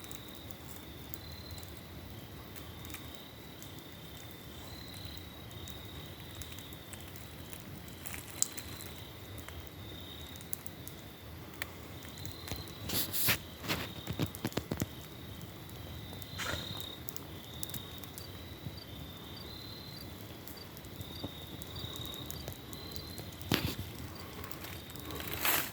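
Crickets chirping steadily in a high, pulsing chorus, with a campfire popping and crackling now and then. There is a cluster of crackles about halfway through and a sharp snap near the end.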